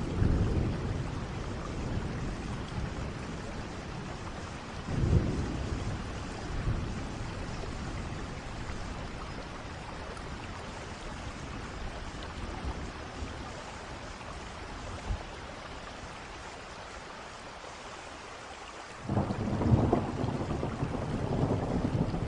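Steady rain with thunder: a rumble fading out at the start, a short loud clap of thunder about five seconds in, and a fresh rumble of thunder starting near the end.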